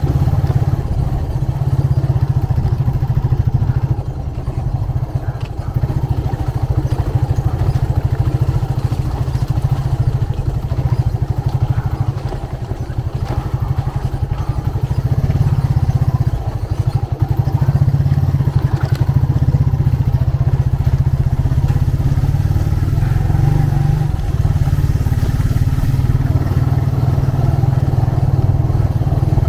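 Motorcycle engine running steadily on the move, heard from the rider's seat, with a heavy low rumble. It dips briefly in level a few times.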